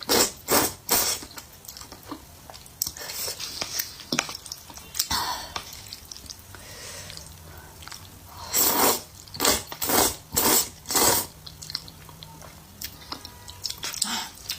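Close-miked eating: a person biting and chewing food with wet, crunchy mouth sounds, coming in irregular bursts that are loudest about a second in and again from about eight to eleven seconds in.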